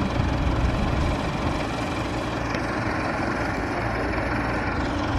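Tractor diesel engine running steadily with a low rumble.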